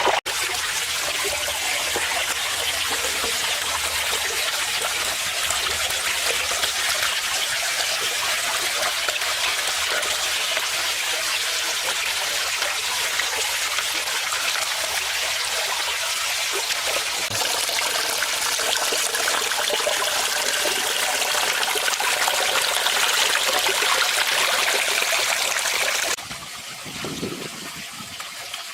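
Water from a garden pond waterfall spilling and trickling into the pond as a steady rush. Near the end it cuts off suddenly to something quieter.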